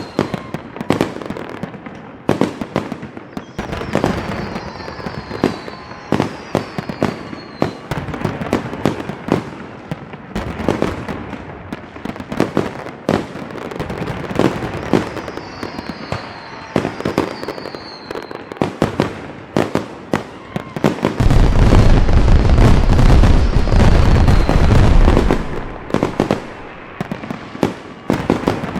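Fireworks going off in a steady run of sharp bangs and crackles, with several short falling whistles. About two-thirds of the way through comes a dense, much louder stretch of about four seconds with a heavy low rumble, then the scattered bangs resume.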